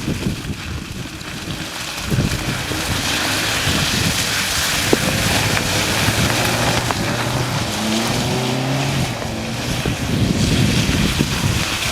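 Hyundai Tucson's engine running and revving up in short rising steps while driving through mud, with wind buffeting the microphone.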